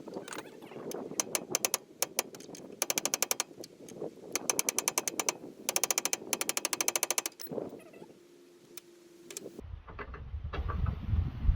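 Ratchet wrench clicking in four quick bursts as a bolt is worked on the car's front suspension. About ten seconds in, the sound changes to a low rumble like wind on the microphone.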